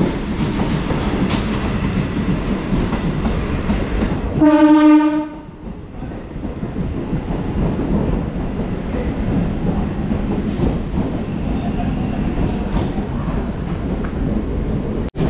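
Suburban local train running on the rails with a steady rumble, and one short horn blast about four and a half seconds in.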